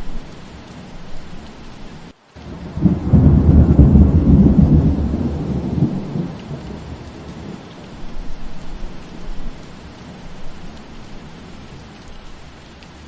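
Steady rain, broken by a roll of thunder: a loud low rumble begins about three seconds in and fades away over several seconds. Just before the thunder, the sound cuts out for a split second.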